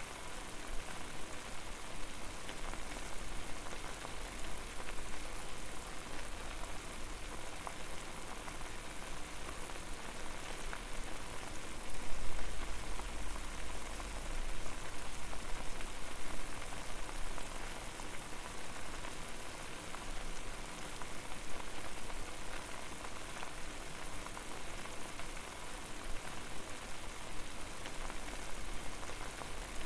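Water boiling hard over a flame: a steady dense bubbling and crackling, swelling louder with a deeper rumble for a couple of seconds about twelve seconds in.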